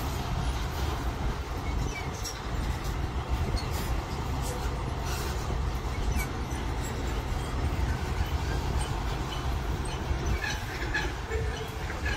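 A train rolling past: a steady low rumble of wheels and cars on the track, with a few faint high squeaks near the end.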